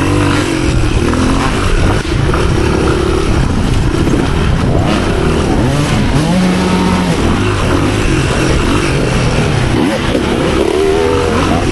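Off-road motorcycle engine revving up and down repeatedly, the pitch rising and falling with the throttle.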